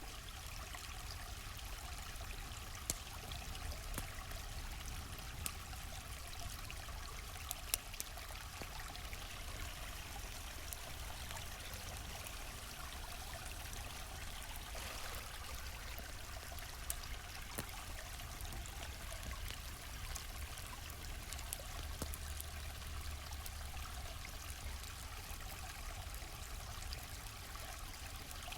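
A gently flowing stream, a steady rush of water, with a handful of sharp crackles and pops from a campfire scattered through it.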